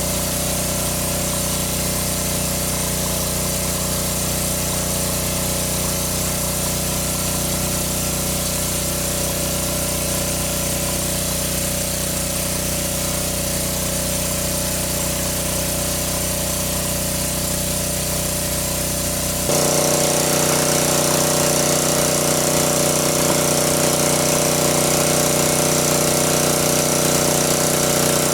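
A small engine running steadily with a slow regular throb, stepping up abruptly louder and higher-pitched about two-thirds of the way through.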